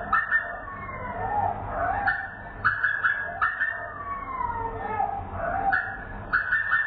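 A bird's call played slowed down. A phrase of several short, sharp notes is followed by a long falling whistle, and the phrase repeats about every three and a half seconds.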